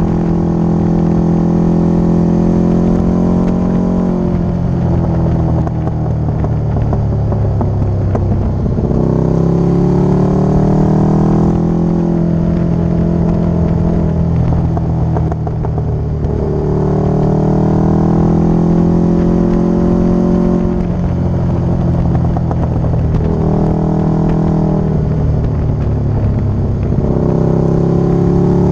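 Motorcycle engine running under way, its note climbing and then dropping back several times as the rider accelerates and shifts or rolls off the throttle.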